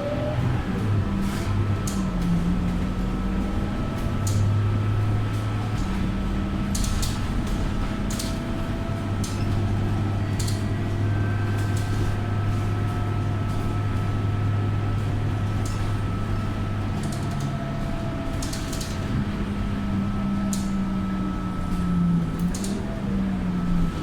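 Scania K230UB bus's five-cylinder diesel engine running at a mostly steady speed, heard from inside the passenger cabin, with a faint steady whine and scattered rattles and clicks from the bus body and fittings.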